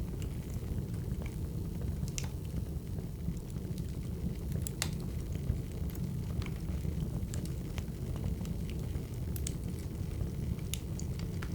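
Burning firewood crackling: scattered sharp pops and snaps over a steady low rush of the fire.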